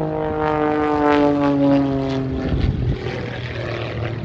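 Jet-assisted Pitts S-2S aerobatic biplane flying past: its engine and propeller drone slides down in pitch as it passes, then gives way to a rough low rumble about three seconds in that fades.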